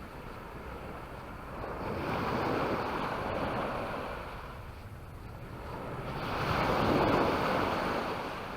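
Sea waves washing onto the beach, the surf swelling and fading twice, the second time louder.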